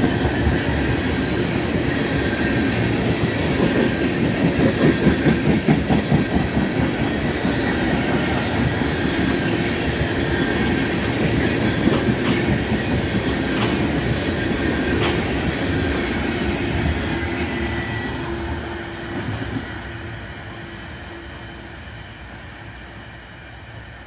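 Freight train's tank cars rolling past, wheels clacking over rail joints with a thin wheel squeal. Over the last several seconds the rear of the train draws away and the sound fades.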